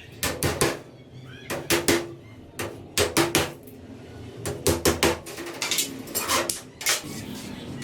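Light hammer taps on wooden sticks, in quick groups of two or three, each with a short ring.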